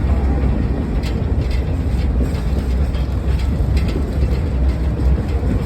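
Railroad passenger car rolling along the track: a steady, heavy low rumble with irregular clicks and rattles.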